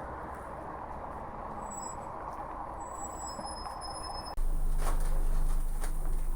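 Outdoor ambience with a steady hiss and a few faint high chirps, then an abrupt cut about four seconds in to a louder steady low drone with scattered clicks.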